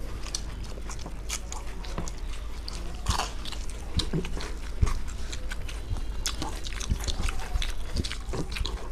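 Close-miked chewing and wet lip-smacking of two people eating rice and curry by hand: a steady stream of small, quick mouth clicks.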